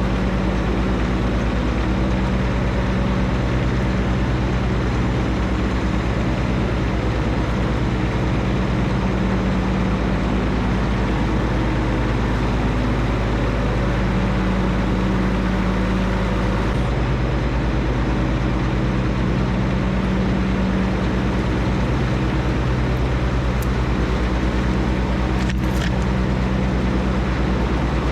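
John Deere 1025R compact tractor's three-cylinder diesel engine running steadily at a constant speed, with one brief click near the end.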